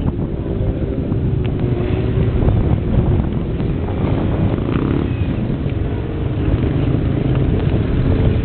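Wind buffeting the microphone as a steady low rumble, with a faint steady hum and a few faint distant voices.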